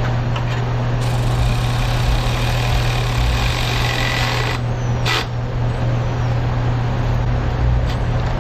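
A steady low hum, with a hiss that starts about a second in, runs about three and a half seconds and cuts off sharply, followed by a short sharp click.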